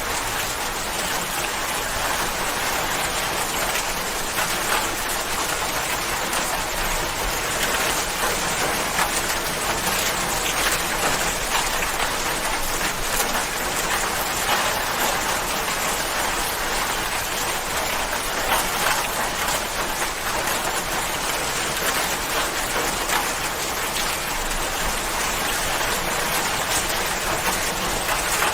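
Steady rain falling, a dense even patter of many drops on a surface.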